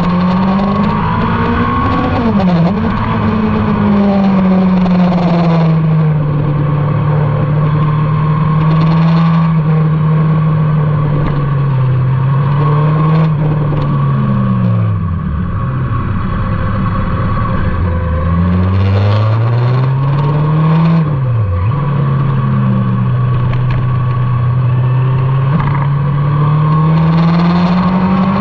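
A motorcycle engine at speed on a race track, its pitch climbing and falling as the rider accelerates, changes gear and slows for corners, with a constant rush of wind. There are short sharp drops in pitch about 2.5 s in and about 21 s in, and a long falling stretch around 14 to 15 s in, before the engine note climbs again.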